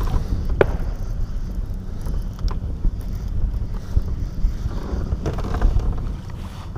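Wind buffeting the microphone in a low, steady rumble, with two short sharp knocks, one about half a second in and one about two and a half seconds in.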